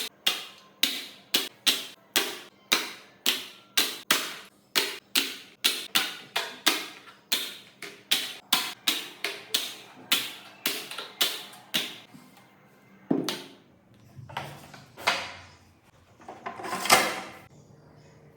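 A rapid series of sharp clicks or knocks, about two a second, that slows and thins out after about twelve seconds, followed by a few louder, longer knocks near the end.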